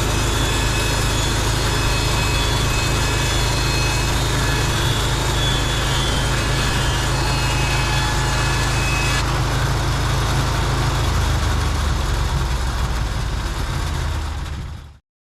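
Portable bandsaw mill's engine running steadily, with a faint high whine above it; the sound fades out a little before the end.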